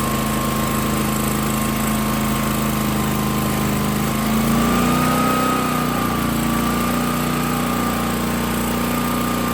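A pressure washer's 16-horsepower gasoline engine running steadily. About halfway through, its pitch wavers and it grows a little louder for a second or so before settling again.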